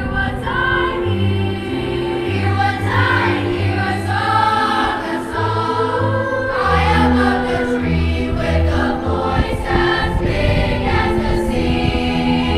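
Student choir singing a holiday song in parts over accompaniment, with held low bass notes changing every second or so beneath the voices.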